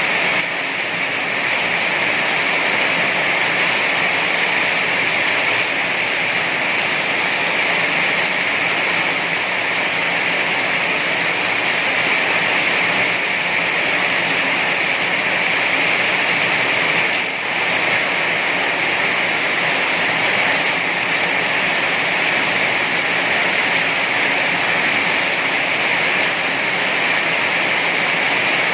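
Heavy rain falling in a steady, loud downpour, with one brief dip in level about two-thirds of the way through.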